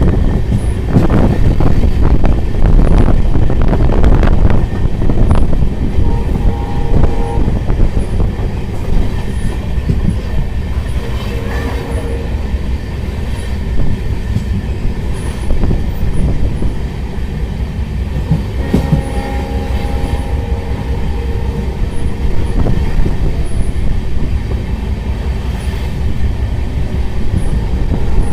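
Passenger train running along the track, a loud steady rumble of wheels and carriages. Twice, about six seconds in and again near twenty seconds, a brief pitched tone sounds above the rumble.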